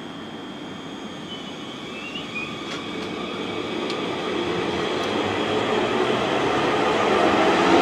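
South Western Railway electric multiple-unit train running along the platform, getting steadily louder, with a low motor whine that grows and rises slightly in pitch near the end.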